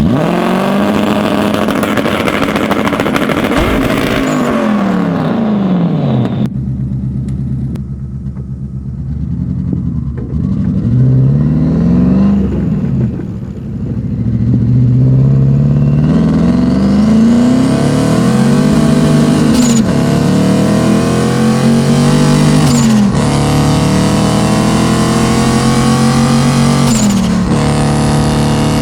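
Turbocharged BMW M62 V8 swapped into a BMW E30, revving hard over and over, its pitch climbing and falling away several times, with a short high chirp at several of the drops in revs.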